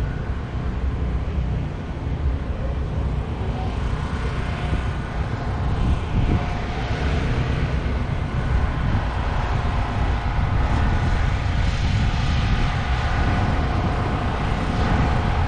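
Jet dragster's turbine engine running: a steady whine over a heavy rumble, getting louder about four to six seconds in and holding there.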